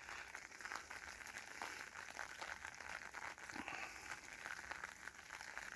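Light rain pattering on an umbrella: a faint, steady crackle of many small drop ticks.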